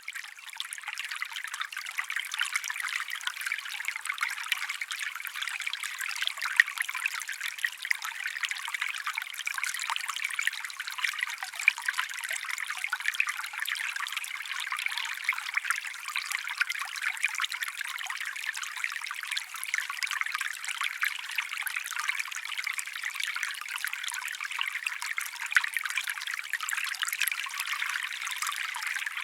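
Small stream trickling steadily, a light, bright babble of running water with no deep rumble.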